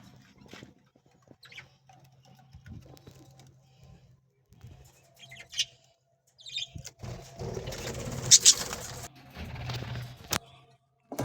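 Budgerigars chirping in short, scattered calls, with a stretch of rustling noise in the second half and a low steady hum throughout.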